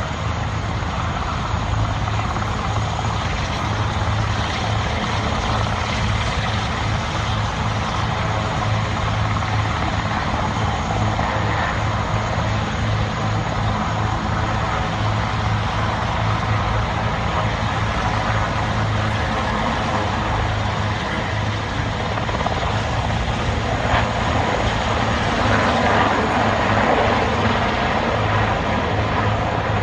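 Helicopter rotors and turbines running steadily, with a rapid low beat from the blades.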